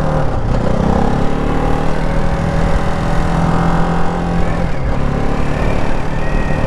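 Ducati Hypermotard 698 Mono's single-cylinder engine running under way. Its note rises about half a second in, holds steady, then drops near five seconds and settles lower.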